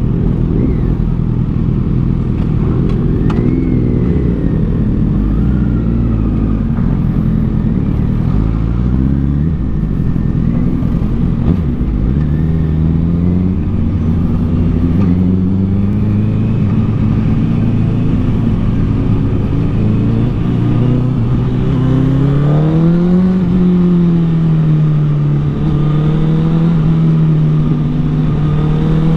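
A 2013 Honda CBR1000RR Fireblade's inline-four engine, breathing through an aftermarket Taylormade exhaust, running under way. Its pitch climbs and drops again and again as the bike accelerates and changes speed, with a sharper rise and fall about 22 seconds in.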